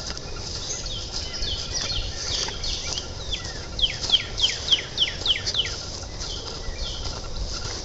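Songbird singing: a quick run of clear whistled notes, each sliding downward in pitch, about three or four a second, loudest in the middle of the stretch.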